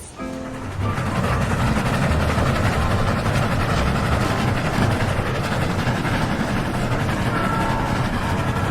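A train rolling past: a steady rumble with rail and wheel noise that builds within the first second and then holds.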